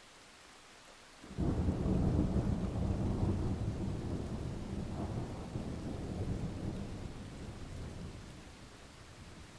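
Thunder: a sudden loud clap about a second in that rolls into a long low rumble, swelling again midway and slowly dying away, over steady rain.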